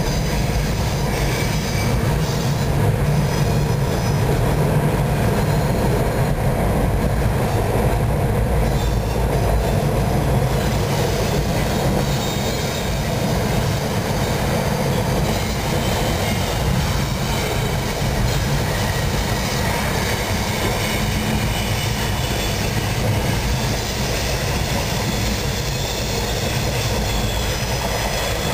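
Double-stack intermodal container well cars of a freight train rolling past at speed: a steady rumble and clatter of steel wheels on the rails, with faint high wheel squeals coming and going, more of them in the second half.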